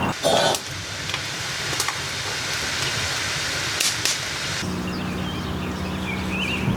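A steady hiss with a few sharp crackles, stopping abruptly about four and a half seconds in; then a low steady hum with birds chirping.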